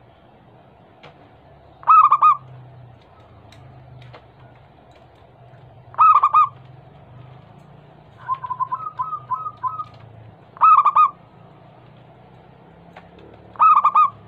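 Zebra dove (perkutut) calling: four short, loud cooing phrases about every four seconds, with a quicker run of softer staccato notes between the second and the third, over a steady low hum.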